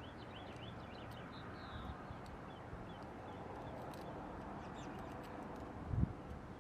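Small birds chirping repeatedly over a steady outdoor background hiss, with one dull low thump near the end.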